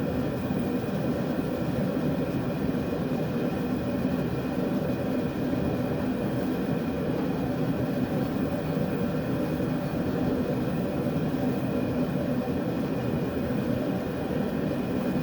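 Blacksmith's forge running with a steady, unchanging noise.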